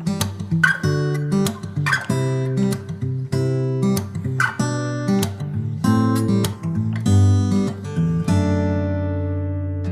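Background music: acoustic guitar strumming and picking chords, with a chord left to ring and fade out near the end.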